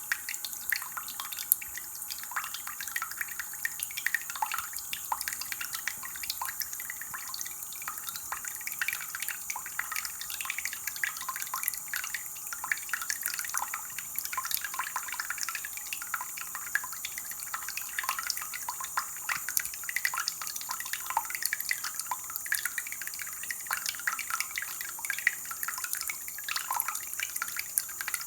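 Water dripping and trickling: many small drops falling irregularly and quickly, each a short plink.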